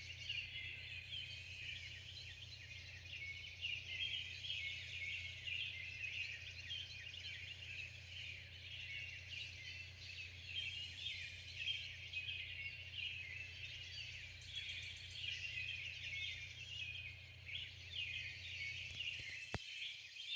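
Early-morning bird chorus: many small birds chirping and singing at once in a dense, unbroken tangle of high calls, over a low steady hum. A single sharp click sounds near the end.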